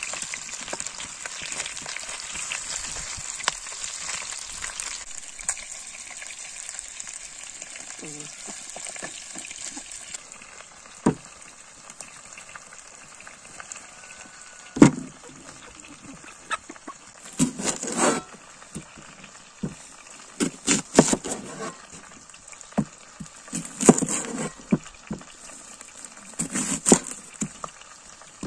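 Food sizzling as it fries, a steady hiss that fades about ten seconds in. After that come a series of separate knocks and clatters, typical of cookware being handled.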